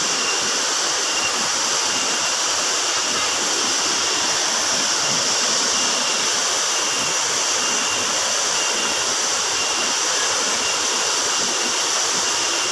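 Waterfall: the steady, unbroken rush of falling water, with a bright hiss from the spray.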